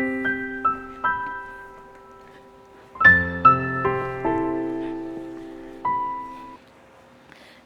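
Background piano music: a few sparse chords and single notes that ring out and fade, with a fuller low chord about three seconds in.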